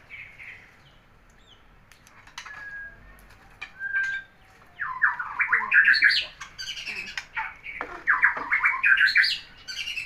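White-rumped shama calling: a couple of short clear whistles, then two loud bouts of rapid sharp notes about five and eight seconds in.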